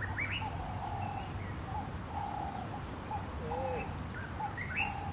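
Birds calling: a string of short, repeated mid-pitched notes with a few brief higher chirps, over a faint steady low hum.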